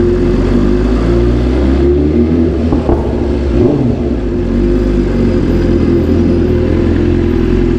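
BMW S1000RR's inline-four engine running with a steady, even note.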